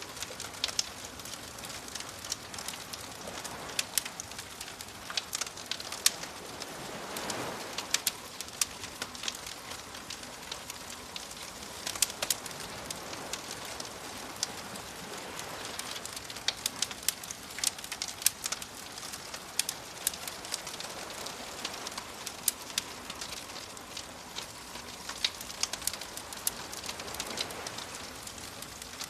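Wood fire crackling with many sharp, irregular pops, over soft ocean waves that swell and wash in a few times.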